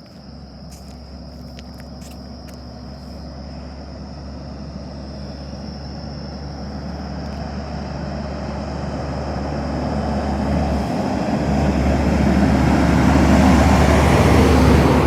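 Truck approaching across a bridge, its engine hum and road noise growing steadily louder over many seconds and peaking near the end. A thin, steady high-pitched tone runs underneath.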